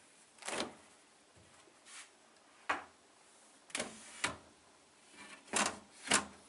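Refrigerator being handled: a string of about seven short knocks and clunks, irregularly spaced, with two close pairs near the middle and end.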